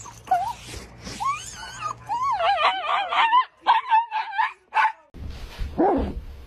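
A dog whining and howling in a long run of wavering, up-and-down high notes, breaking into several short yelps about three and a half seconds in. A lower, falling note follows near the end.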